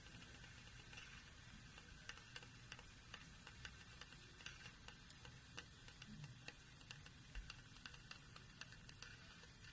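Faint, irregular ticking and popping from a homemade candle-heated pop-pop boat engine, as water boils to steam in its can boiler and the boat pushes itself along.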